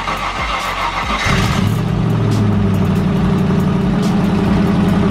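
Land Rover Discovery 1's Rover V8 engine cranking on the starter for about a second, then firing on the first try and running steadily. This is its first start after the fuel tank was plumbed in and the empty lines primed.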